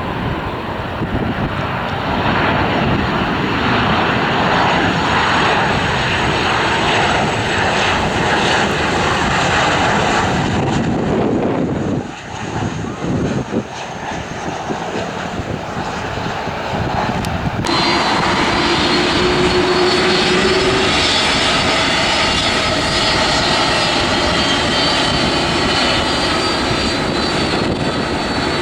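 Airliner engines running loud and close as an aircraft passes, with a short lull about twelve seconds in. Partway through the sound cuts abruptly to another aircraft, whose engines add a high, steady whine over the roar.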